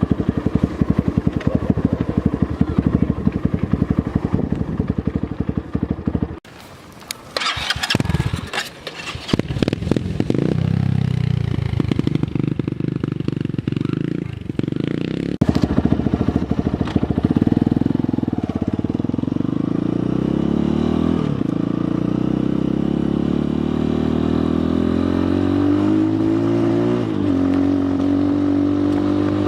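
Apollo 250cc dirt bike's engine running, with a rapid pulsing beat at first. It cuts out suddenly about six seconds in, followed by a few seconds of scattered knocks. From about ten seconds in the engine note rises and falls as it is revved, climbing near the end.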